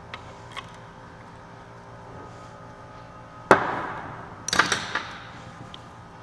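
One sharp knock with a short ringing tail about three and a half seconds in, then a quick clatter of clicks a second later, as the Dana 44 carrier and its shims are fitted into the Salisbury differential housing.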